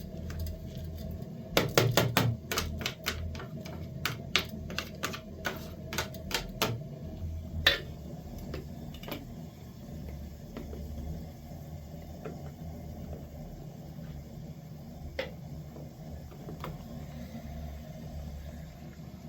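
A quick run of sharp clicks and knocks, about four a second for some five seconds, then a handful of single knocks further apart, over a low steady hum.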